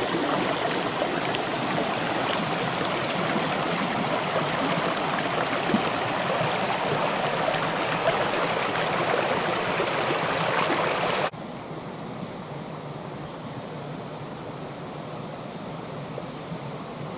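Creek water flowing steadily over rocks, a dense rushing and babbling. About eleven seconds in it cuts off abruptly to a quieter, softer water sound.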